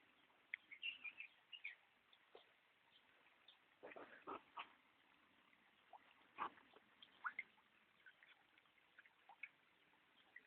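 Faint birds calling: scattered short, high chirps with a few louder calls a third of the way in and again past halfway.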